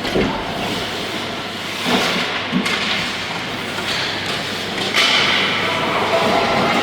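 Steady noise of play echoing in a large indoor hall during a youth team scrimmage, with a few thuds, the loudest about five seconds in.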